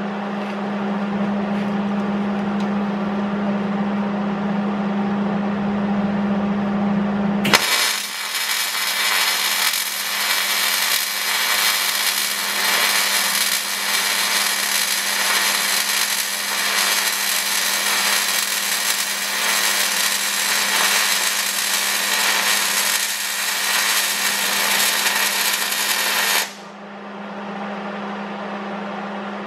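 A steady electrical hum, joined about seven seconds in by a harsh, hissing metalworking tool working the steel frame. The tool starts abruptly, runs with a flickering level for about twenty seconds, then cuts off, leaving the hum.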